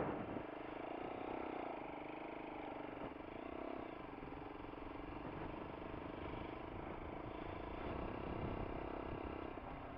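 Lexmoto LXR motorcycle engine running while riding, its note rising and falling a little, over a low steady rumble.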